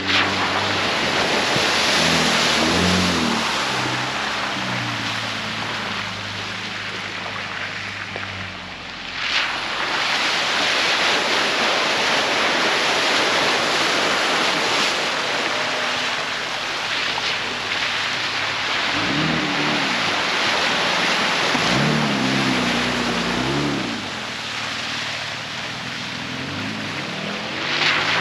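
Jeep driving on a forest road: steady tyre and wind noise, with the engine's pitch rising and falling a few times as it accelerates and eases off.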